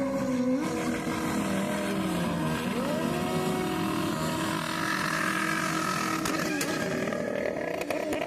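Motorcycle engine running, its pitch holding and then rising and falling as the throttle is worked.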